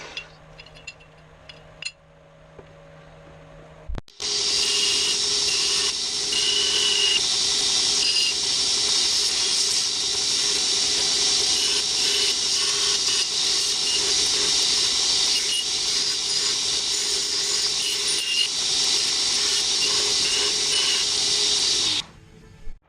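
Milwaukee deep-cut portable band saw cutting steel: a loud, steady saw noise with a hum beneath it. It starts about four seconds in and cuts off shortly before the end.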